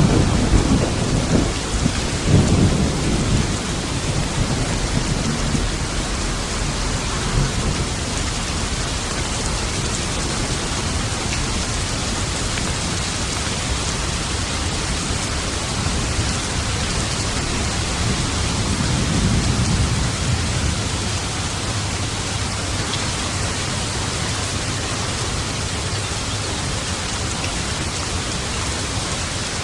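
Steady rain falling in a thunderstorm, with rolling thunder that fades over the first few seconds and another low rumble about two-thirds of the way through.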